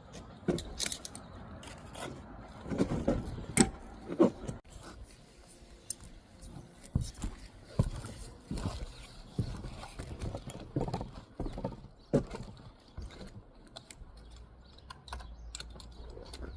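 Irregular taps, knocks and scrapes of hand bricklaying: a trowel striking and scraping brick and mortar.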